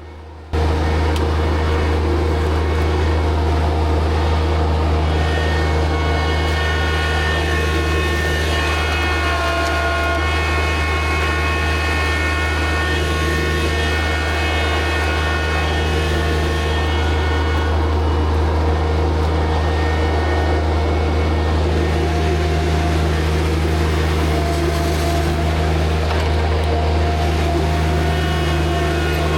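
New Holland TZ22 compact tractor's three-cylinder diesel engine running steadily at working speed, with a thin whine over the low drone; it comes in suddenly about half a second in.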